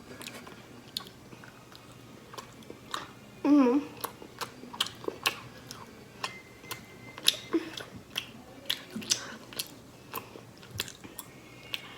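A person chewing sweets close to the microphone, with many small, irregular wet mouth clicks. A brief hummed voice sound comes about three and a half seconds in.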